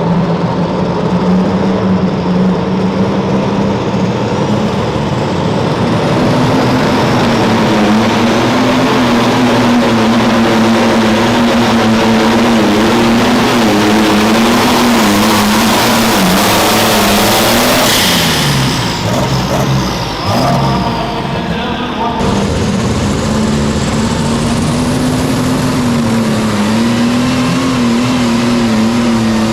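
Super stock pulling tractor engine running flat out under load, its pitch wavering as it holds high revs, with a rising hiss that peaks shortly before the revs sag and break up. After a sudden change, a tractor engine is pulling at high revs again.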